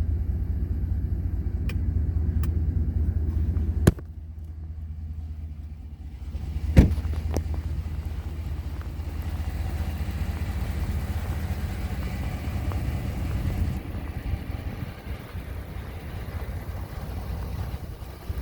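Pickup truck engine idling with a steady low rumble. A sharp knock about four seconds in, after which the rumble is quieter, and another knock about seven seconds in.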